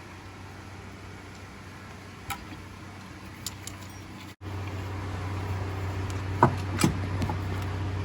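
A few sharp metallic clicks and knocks of tools and parts being handled, over a steady low hum that gets louder after a brief break about halfway through.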